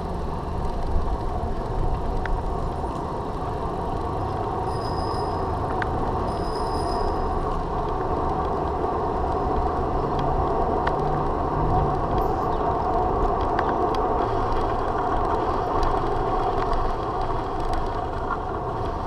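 Steady rumble and wind noise of a bicycle being ridden on pavement, with two brief high-pitched squeaks about five and six and a half seconds in.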